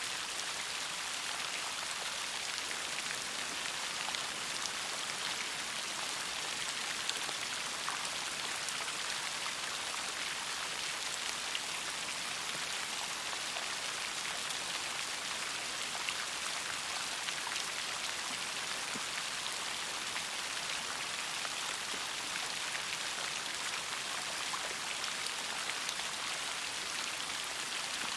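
Steady rain falling, a dense patter of raindrops with small scattered drips and ticks.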